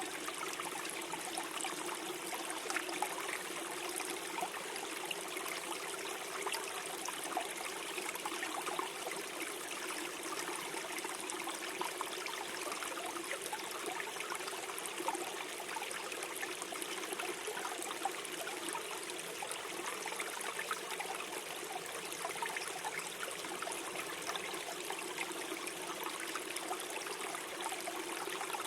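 A small forest stream flowing and gurgling steadily over stones, an even wash of water with constant small splashes and trickles.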